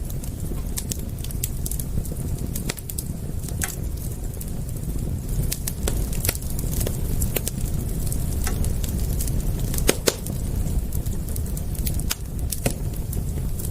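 Wood fire crackling: irregular sharp pops and snaps, a few louder ones about ten seconds in, over a steady low rumble.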